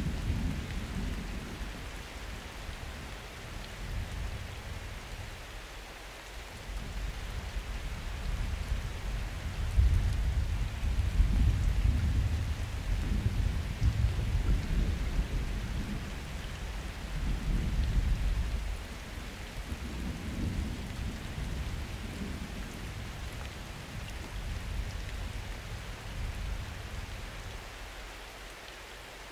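Summer thunderstorm: steady rain hiss with thunder rumbling low in long swells that come and fade, the heaviest roll about ten seconds in.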